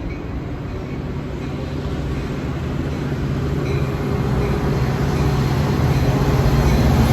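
Metra F40PH diesel locomotive's engine running and drawing steadily louder as the train pulls out and comes closer.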